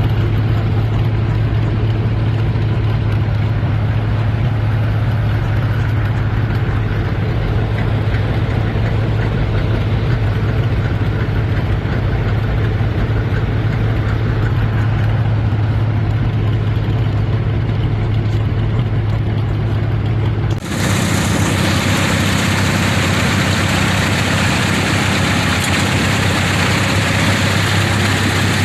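Tractor engine running steadily with a low, even hum. About twenty seconds in, the sound changes abruptly to a brighter, noisier engine sound.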